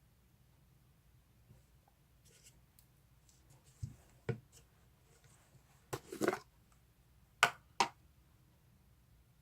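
Faint handling noises in a small room: a few short knocks and scrapes, two about four seconds in, a longer scrape about six seconds in, and two sharper clicks near the end.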